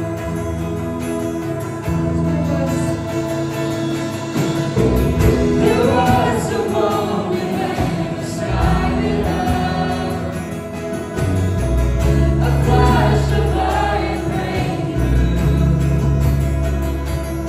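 Live worship band music: sustained low bass and keyboard chords that change every few seconds, with voices singing over them from about five seconds in.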